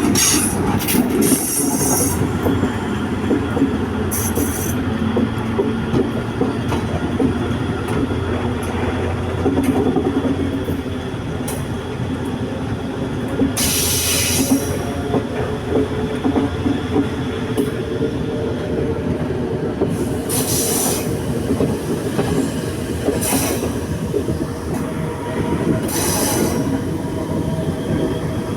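Train running on rails with a steady low rumble, its wheels screeching briefly against the rails several times, most strongly about halfway through.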